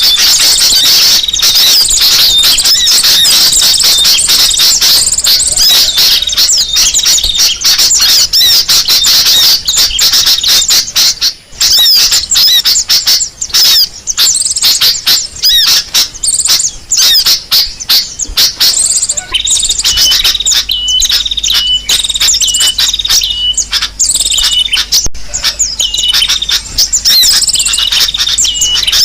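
Bird-lure recording of sunbird calls: dense, rapid, high-pitched chirps and trills, played loud. About two-thirds of the way through, a run of short notes repeated at one steady pitch joins in.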